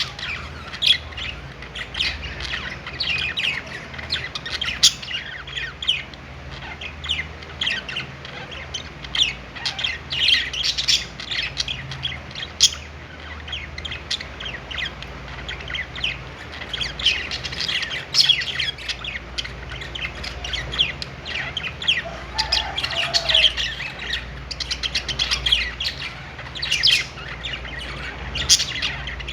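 A group of budgerigars chirping and chattering together: a continuous, overlapping stream of quick high chirps.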